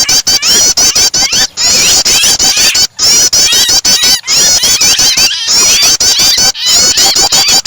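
Prinia (prenjak) song mixed with the frantic distress calls of a trapped bird: loud, rapid, high chirping in repeated phrases about a second long, broken by short pauses, over lower squeaky notes.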